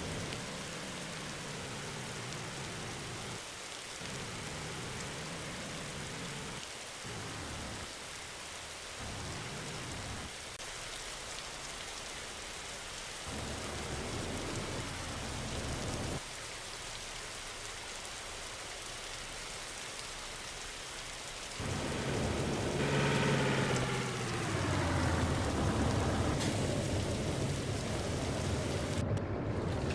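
Steady storm noise of heavy rain and wind. About two-thirds of the way through it grows louder, and a falling whine runs through it for a few seconds.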